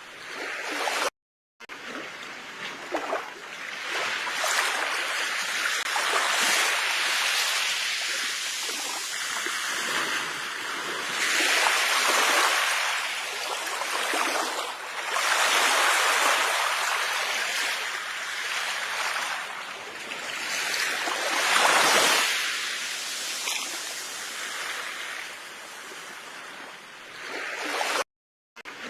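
Sea waves washing onto a shore, the surf swelling and falling back every few seconds. The sound cuts out to silence briefly twice, about a second in and near the end.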